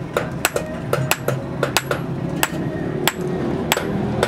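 Blacksmith's hammer striking steel on an anvil in a quick, uneven run of blows, roughly a dozen, each with a short metallic ring, over a steady low hum.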